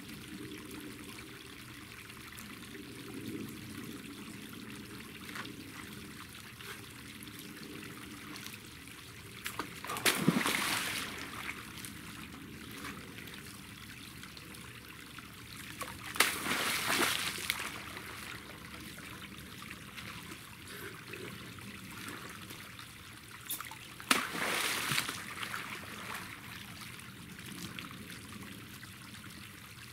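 Water trickling steadily through a leaking earthen dam. Three louder sounds break in, about a third of the way in, halfway and near the end, each starting with a sharp knock and lasting about a second.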